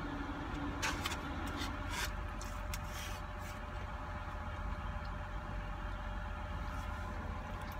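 Close chewing and mouth sounds of someone eating orange chicken, with a few short wet smacks in the first three seconds, over a steady low hum inside a car.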